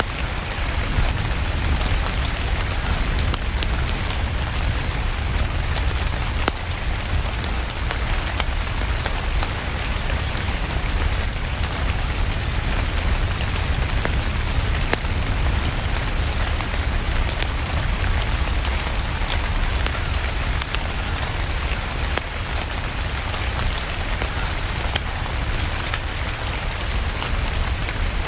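Rain-and-fireplace sleep ambience: steady rain, with many small sharp ticks scattered through it and a deep low rumble underneath.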